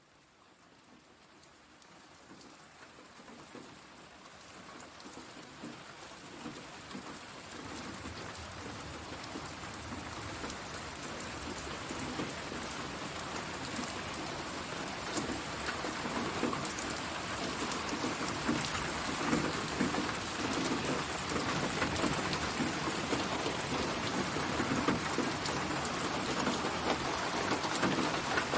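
Steady rain falling, fading in gradually from near silence over the first ten to fifteen seconds, with many individual drop hits.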